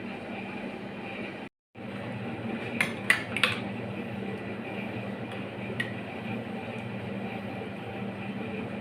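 Kitchenware clinking: three sharp clinks of utensils or dishes in quick succession about three seconds in and a lighter ringing clink near six seconds, over a steady background hum. The sound cuts out completely for a moment about a second and a half in.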